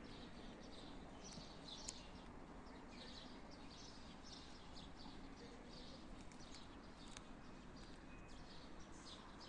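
Faint birds chirping, many short calls in quick succession, over a low steady background noise.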